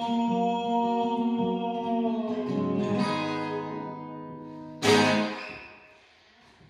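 Acoustic guitar ending a song: a held chord rings and slowly fades, then one last strummed chord about five seconds in dies away to near silence.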